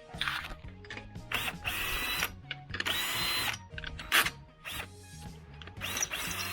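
Power tool whining in several short bursts, the longest about a second, over background music with a steady beat.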